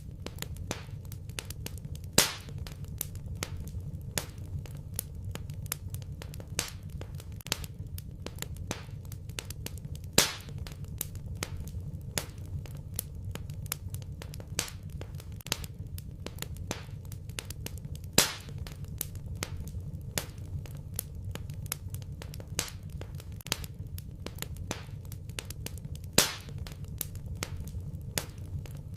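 Wood fire in a fireplace crackling steadily over a low rumble of burning, with four louder pops at regular intervals about eight seconds apart.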